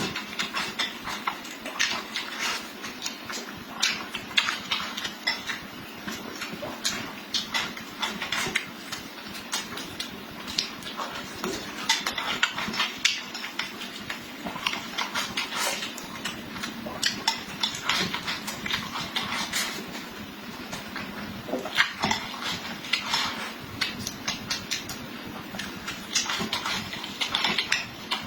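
A person eating: chewing and wet mouth smacks, a dense run of short sharp clicks, with now and then a clink of utensils.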